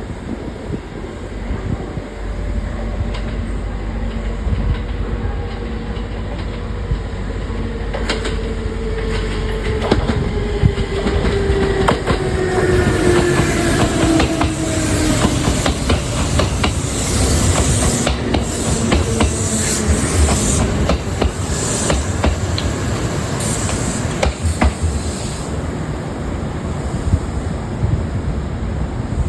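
Kintetsu 2430 series electric train slowing down, its traction motor whine falling steadily in pitch over about fifteen seconds. The wheels click over the rail joints, and a hiss rises in the middle of the stretch.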